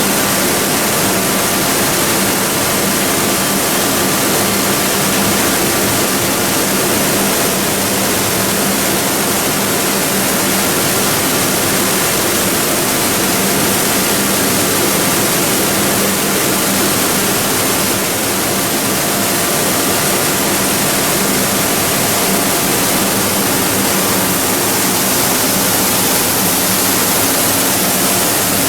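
PE and calcium carbonate pelletizing line running: a loud, steady hissing noise with a constant low hum underneath.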